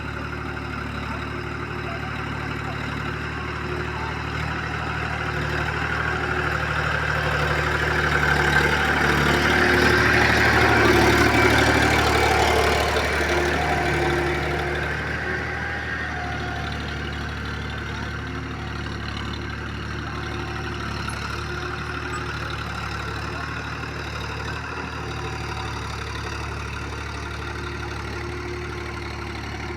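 Old tractor engine running steadily. It grows louder to a peak about ten seconds in, then eases back to its earlier steady level.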